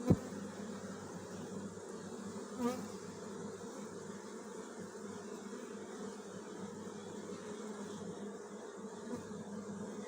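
Many honeybees buzzing in a steady, dense hum. A sharp click right at the start, and a brief louder buzz about two and a half seconds in.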